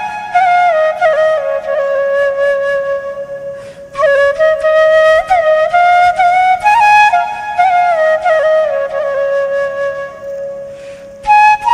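Flute music: a single flute playing a melody of held and gliding notes, in phrases broken by short pauses about four seconds in and near the end.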